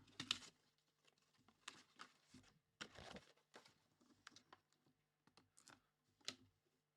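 Faint handling noise from opening a mini-helmet box: scattered clicks and short rustles of cardboard and plastic packaging, a little louder about three seconds in and again near the end.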